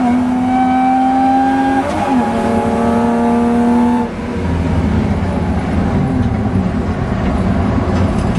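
Rally car engine heard from inside the cabin, held at high steady revs with a brief change in pitch about two seconds in. About four seconds in the engine note drops away into a lower rumble with road noise as the throttle is lifted.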